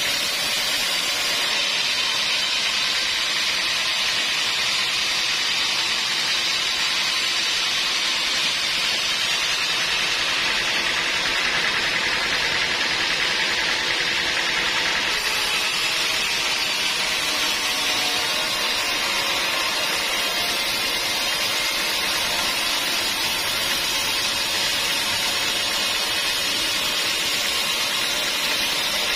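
Sawmill saw running with a steady, even hiss-like noise, with no break or change in level.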